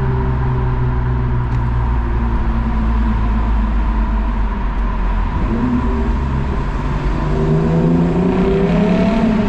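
Lexus IS 350's 3.5-litre V6 through an F Sport exhaust with the resonator deleted, under hard acceleration. The engine note holds a steady low tone for the first few seconds, then climbs in pitch from about halfway through as the revs rise.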